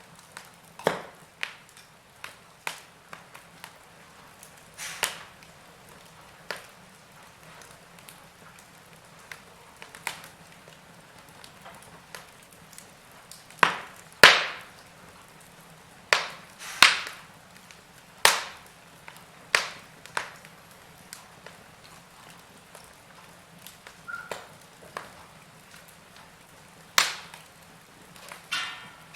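Burning logs crackling: irregular sharp pops and snaps, often a second or two apart, over a faint steady background. The loudest snap comes about halfway through, amid a run of louder pops.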